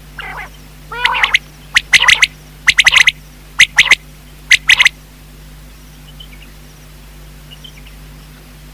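Common quail calling: a couple of raspy notes, then four quick groups of sharp, high notes about once a second, stopping after about five seconds.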